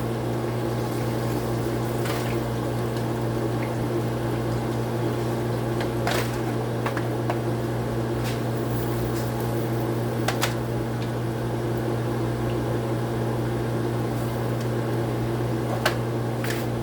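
Chicken frying in hot oil, a steady sizzle under a constant low electrical hum, with a few sharp clinks of utensils against the pot spread through.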